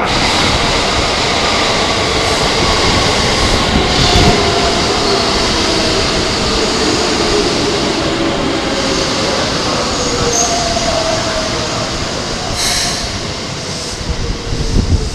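Keikyu electric train of 1000 series and 600 series cars pulling into a station, its traction motors whining and slowly falling in pitch as it brakes, over steel wheels running on the rails.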